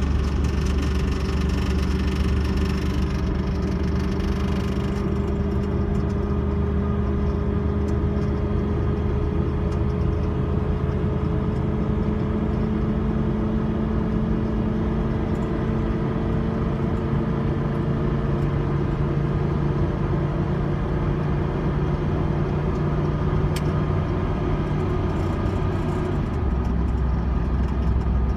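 Dodge Durango's engine running hard at around 2,500–3,000 rpm under the load of towing an RV, heard inside the cab with road noise. A steady drone whose pitch climbs slowly as the truck gathers speed.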